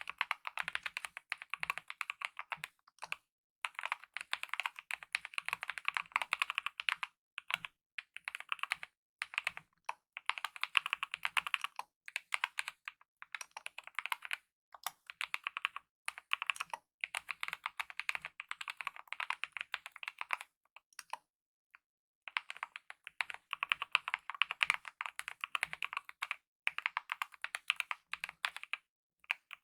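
Fast typing on a mechanical keyboard with lubed optical linear red switches and DSA-profile keycaps: a dense run of quick key clacks, broken by short pauses and one longer pause about three quarters of the way through.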